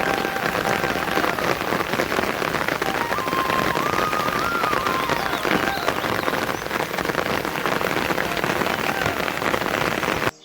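Steady heavy rain, a dense hiss of drops hitting surfaces, with a faint wavering melody above it. The sound drops out briefly near the end.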